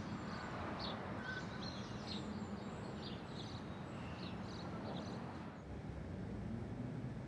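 Birds chirping in short, scattered calls over steady outdoor background noise. About five and a half seconds in, the chirping cuts off abruptly, leaving a low, steady rumble.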